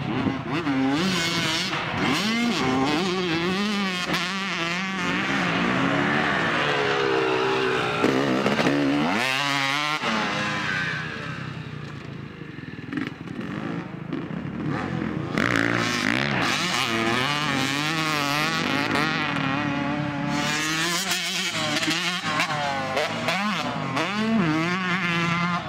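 Motocross dirt bike engines revving, the pitch climbing and falling again and again as the throttle is opened and closed. The engine noise drops lower near the middle, then the hard revving returns.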